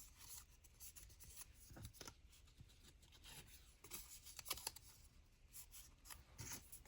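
Faint rustling and light scattered taps of paper card being handled, with a slightly louder cluster of taps about four and a half seconds in.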